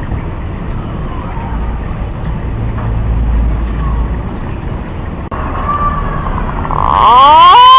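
Punai (green pigeon) calling: over a steady hiss and rumble, faint whistles are followed near the end by loud, clear whistled notes that slide upward.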